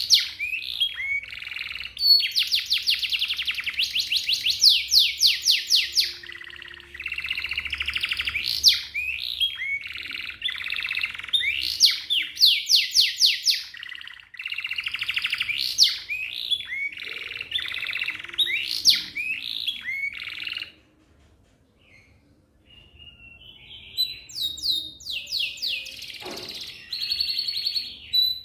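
Domestic canary singing a long song of fast rolling trills and quick rising sweeps. It breaks off for about three seconds about two-thirds of the way through, then resumes with short notes and trills.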